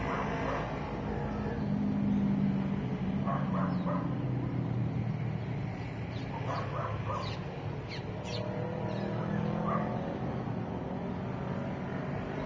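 Passing road traffic, a steady low engine hum that swells about two seconds in and again near the end, with short bird calls at intervals and a run of quick high calls in the middle.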